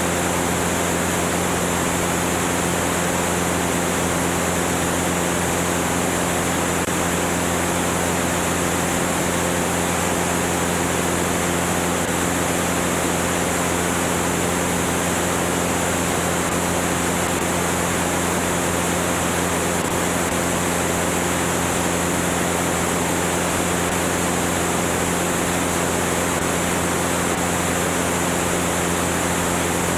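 Cessna 205's single piston engine and propeller droning at a steady, unchanging speed, under a heavy, even rush of air.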